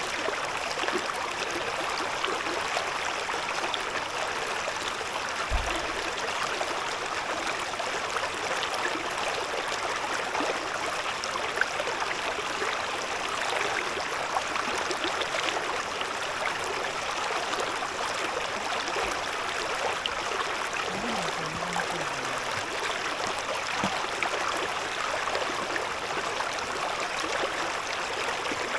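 A shallow river or stream murmuring steadily, water running and babbling over stones. There is a brief low thump about six seconds in.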